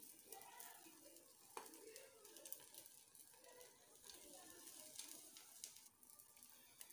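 Near silence: a faint crackling sizzle of an egg omelette frying gently in a nonstick pan on low heat.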